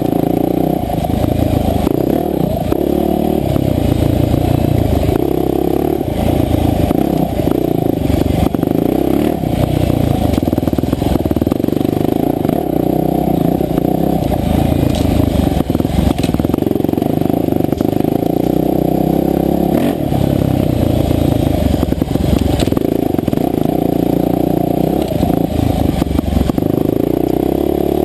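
Husqvarna TE511 dirt bike's single-cylinder four-stroke engine running with the throttle opening and closing as the bike works along the trail, with frequent knocks and clatter mixed in.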